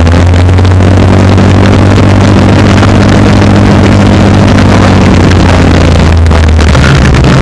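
Twin-engine Alfasud drag car's engines running loud at a steady pitch, the note shifting near the end.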